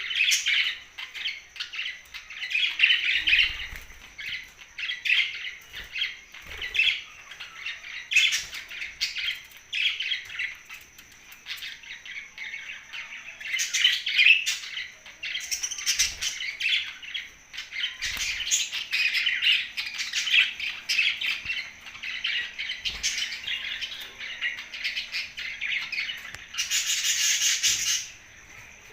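Pet budgerigars chirping and chattering continuously in quick, warbling runs, with a louder, harsher burst of squawking near the end.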